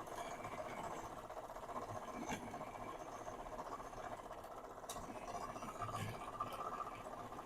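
Bandsaw running slowly with a coarse blade cutting a piece of steel plate: a steady, fairly quiet hum with a few faint ticks.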